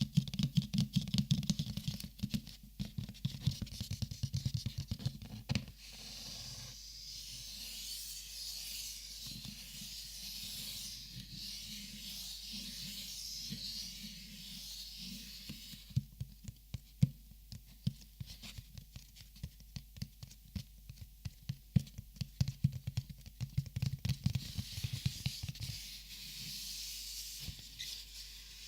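Close-miked handling of plastic Copic markers. It starts with rapid tapping and clicking, then a long stretch of high, crinkly rustling about six seconds in, then tapping and clicking again, with another short rustle near the end.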